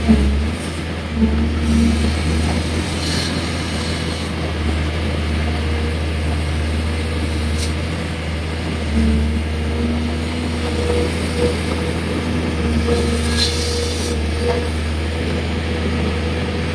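Excavator's diesel engine running steadily, its pitch swelling several times as the arm works under load, with a few light knocks.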